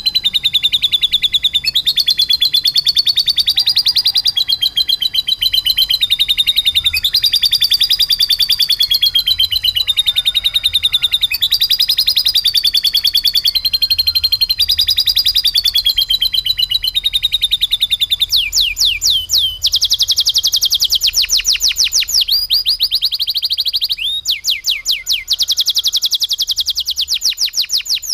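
Domestic canary singing non-stop in very fast trills, a song trained to imitate lovebird calls. From about two-thirds through it breaks into long stretches of an even faster, higher rolling trill.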